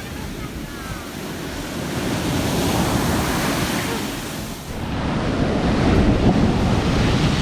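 Big sea waves breaking and washing up the beach in two swells, the second the louder, with wind buffeting the microphone.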